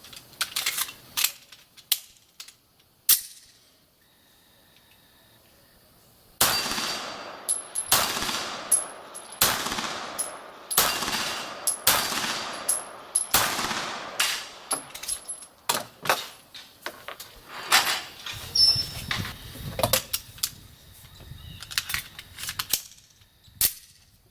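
Beretta 92G Elite Compact 9 mm pistol firing a string of shots about one a second, each with a long echoing tail, with short metallic pings of steel plate targets being hit. Scattered sharp shots come before the string and after it.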